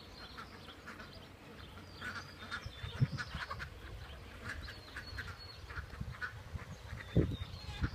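Ducks quacking over and over in short calls, with thin high peeps from young birds above them. Two dull low thumps sound about three seconds in and near the end.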